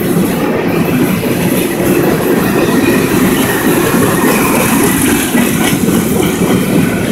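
CSX freight train's empty bulkhead flatcars rolling past, their steel wheels running on the rails in a steady, loud rolling noise.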